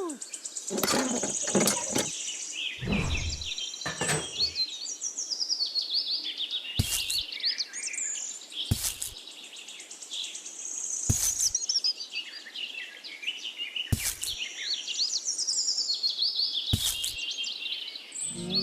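Birds chirping and singing in many short rising and falling calls, with a sharp tap or knock every two to three seconds from about a third of the way in.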